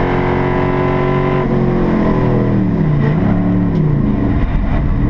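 Race car engine under load. It holds a steady high note, drops in pitch about a second and a half in, then falls and climbs several times as the car brakes, shifts and accelerates again.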